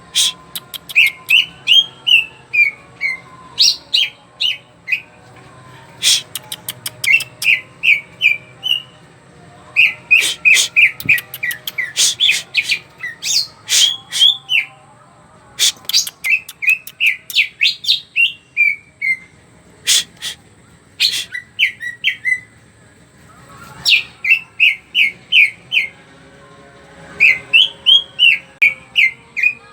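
Green leafbird (cucak ijo) singing loud and nonstop in repeated runs of quick, bright chirping notes, broken by sharp clicks and short pauses.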